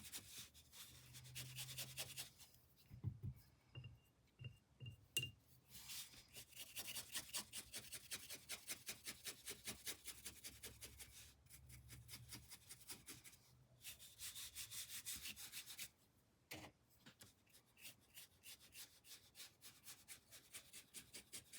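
Paintbrush scrubbing paint onto canvas in quick repeated strokes, with a few light knocks about three to five seconds in and once more later.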